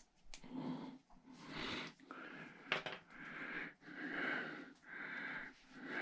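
A man's breathing close to the microphone, in regular breaths about once a second, with a sharp click a little before the middle.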